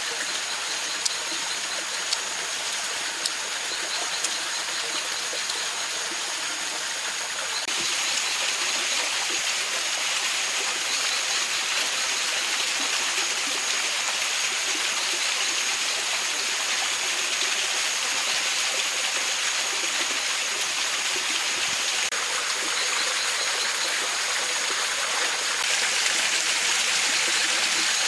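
A mountain stream rushing and splashing steadily over rocks, with a thin steady high-pitched tone above it. A few sharp ticks sound in the first seconds, and the water grows louder about eight seconds in and again near the end.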